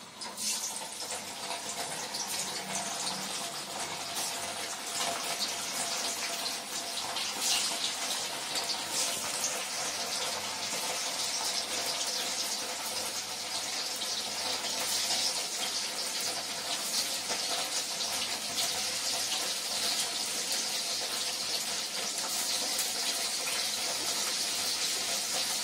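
Paneer cubes sizzling as they fry in hot oil in an iron kadhai: a steady hiss with fine crackling.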